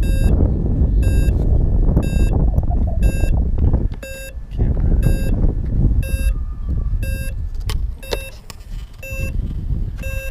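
Short electronic warning beeps repeating about once or twice a second, over heavy wind buffeting the microphone, with a couple of sharp clicks about eight seconds in.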